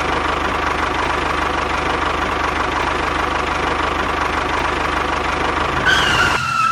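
An engine running steadily at idle with a fast, even knock. It stops abruptly near the end, and a short falling tone overlaps the last second.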